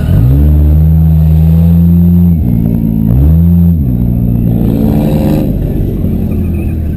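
Demolition derby car engine revving hard: it revs up quickly at the start and holds, drops off, then revs up twice more, the last rev fading out.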